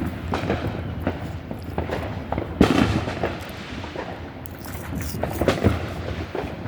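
Consumer fireworks going off: a rapid string of sharp crackling pops, with the loudest bang about two and a half seconds in and another burst of cracks near the end.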